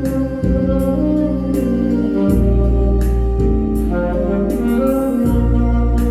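Instrumental Korean trot music: alto-range saxophone melody over a keyboard backing track with electronic organ chords, bass and a steady drum beat.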